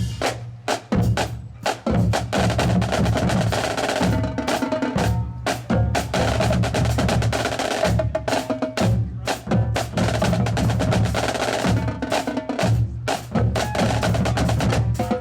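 Marching band playing, with its drumline's snare and bass drums prominent in a steady rhythmic beat.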